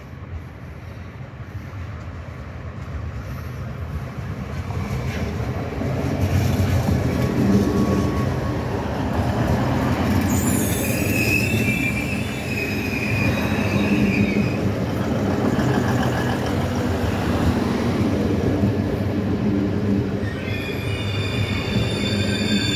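Regional passenger train pulling into a station: its running noise grows louder as it approaches and rolls along the platform. High-pitched wheel squealing sounds about ten seconds in and again near the end as it slows.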